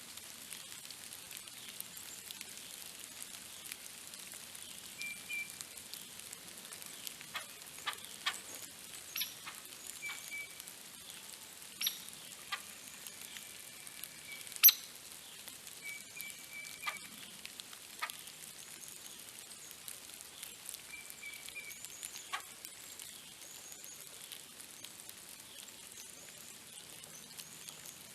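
Outdoor ambience with a steady faint hiss: a small bird gives a short, high double chirp about every five seconds, while scattered sharp taps and clicks come and go, the loudest about halfway through.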